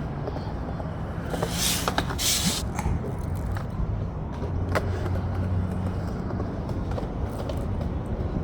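Skateboard wheels rolling over concrete with a steady low rumble, broken by two short hissing bursts about one and a half and two seconds in and a few sharp clicks.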